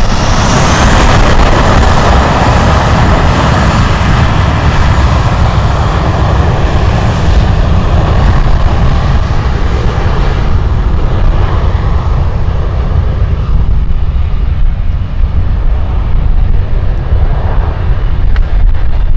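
Jet airliner's engines rushing past loudly and then fading away as it moves off. Strong wind buffets the microphone with a heavy, gusting rumble throughout.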